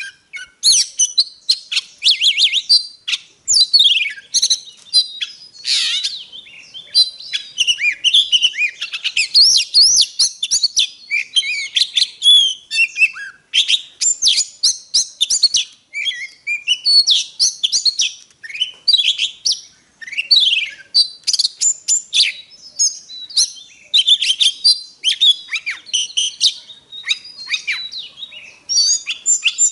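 Oriental magpie-robin singing a long, varied song of whistles, quick rising and falling sweeps and short clicky notes, broken only by brief pauses.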